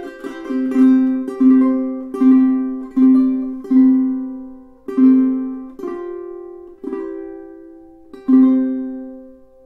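aNueNue UT5K solid koa tenor ukulele strummed: a run of single chords, each left to ring, slowing down toward a last chord about eight seconds in that rings out and fades.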